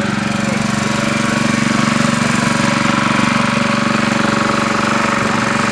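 An engine running steadily close by, with a fast, even pulse and a strong low hum; it cuts off suddenly near the end.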